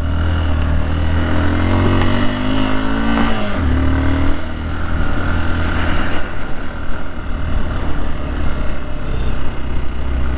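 Hero XPulse 200's single-cylinder engine under way, rising in pitch over the first few seconds, dropping sharply at a gear change about three and a half seconds in, then running steadily. A steady rush of wind noise runs underneath.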